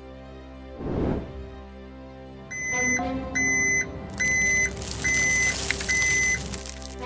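Cartoon background music with a short whoosh about a second in, then a run of evenly spaced high electronic beeps, about half a second each, from about two and a half seconds, joined by a hiss of noise from about four seconds.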